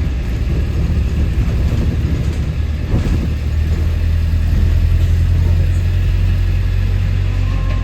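London double-decker bus engine running under way, a loud, steady low drone heard from on board that swells a little around the middle, with a single knock about three seconds in.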